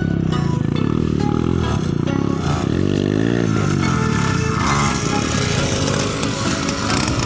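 A 50cc mini motocross bike's engine running, its pitch rising and falling as the throttle is worked.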